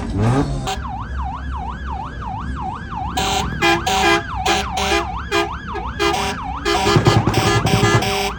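A siren wailing rapidly up and down, a little over two sweeps a second. About three seconds in, a pounding rhythmic beat joins it.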